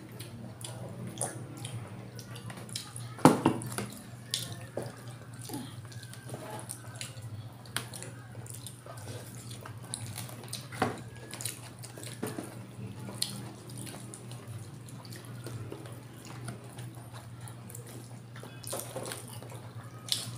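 Close-up wet eating sounds of people chewing and smacking their lips over chicken liver afritada and rice eaten by hand, with scattered sharp clicks; the loudest click comes about three seconds in. A steady low hum runs underneath.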